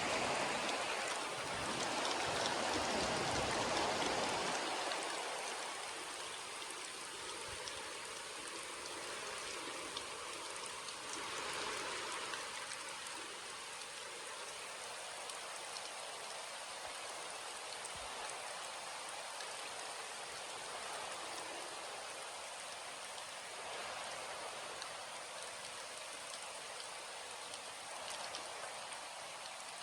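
Rain falling: an even hiss of many drops on surfaces, heavier for the first few seconds, then settling into a steady fall.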